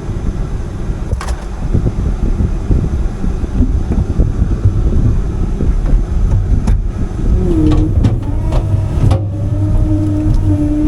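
CAT 310 excavator's diesel engine running hard, with a few sharp cracks about a second in and again near the end; a steady hydraulic-type whine comes in about three quarters of the way through.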